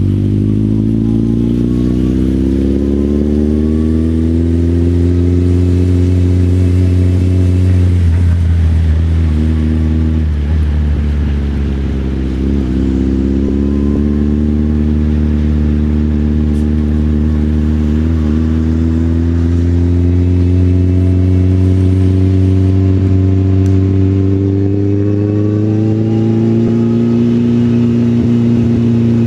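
Motorcycle engine running under way, its pitch climbing slowly as it pulls, dropping back a couple of times about eight and twelve seconds in, then climbing again and settling into a steady cruise.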